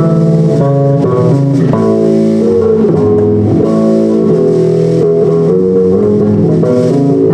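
Punk rock band playing live: distorted electric guitars, bass guitar and drum kit at full volume, the opening bars of a new song.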